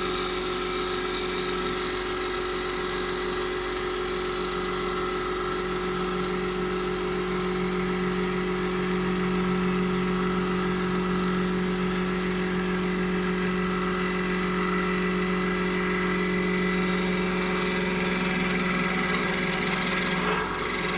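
CNC wood-turning lathe running steadily, a constant machine hum with a steady whine, briefly dipping just before the end.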